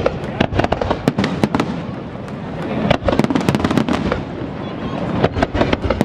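Aerial fireworks display: a dense run of bangs and crackles over a continuous low rumble, thickening to a rapid salvo about three seconds in and again near the end.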